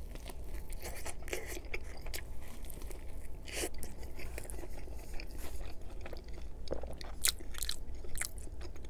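Close-miked biting and chewing of a Chicago-style hot dog on a toasted bun: scattered soft crunches and wet mouth clicks, with a louder crunch about three and a half seconds in.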